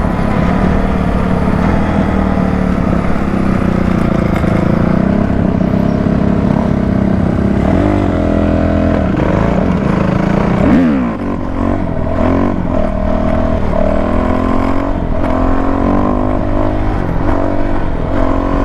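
Dirt bike engine running at speed, steady at first, then from about halfway through revving up and down repeatedly as the throttle is worked.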